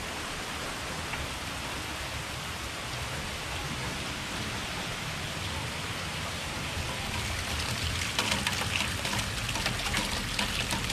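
Steady heavy rain falling. From about three-quarters of the way in, closer and louder splashing and spattering as water gushes out of an overflowing rain-gutter downspout onto the grass.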